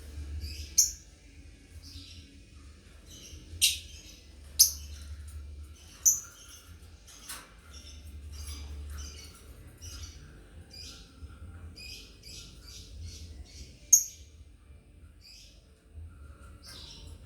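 Lovebirds chirping continuously in quick short calls, with a handful of much louder shrill squawks scattered through.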